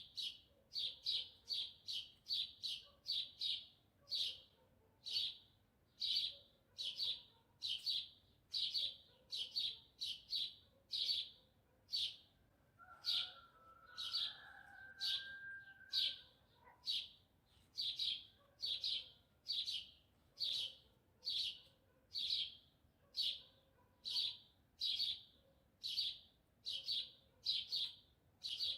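A small bird chirping over and over, short sharp chirps about one to two a second. A fainter, lower call lasting about three seconds comes in near the middle, a rooster crowing.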